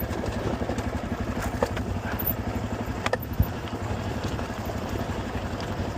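Honda CRF250 dirt bike's single-cylinder four-stroke engine running steadily while the bike rolls down a rough hill. There is a sharp knock about halfway through.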